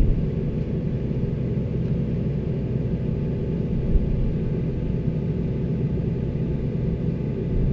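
Tractor engine idling steadily, a low, even running sound.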